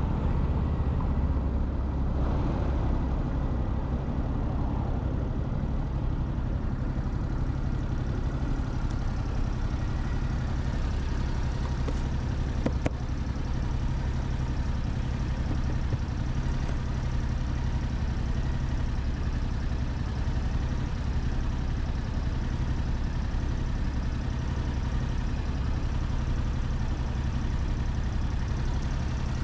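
Motorcycle engine idling steadily, with one short click about thirteen seconds in.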